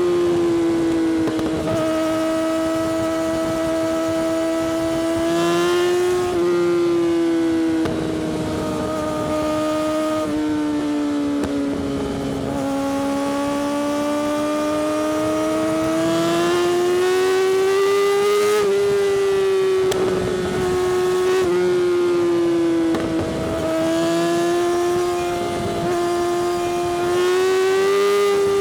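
Yamaha R6 inline-four sportbike engine through an Akrapovic exhaust, held at high revs while riding. Its high, steady note wavers up and down with the throttle, with a few quick breaks where the pitch steps.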